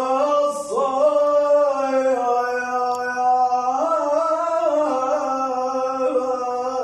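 A man singing unaccompanied, holding one long drawn-out note for the whole stretch, with small upward steps in pitch about a second in and again around four seconds in.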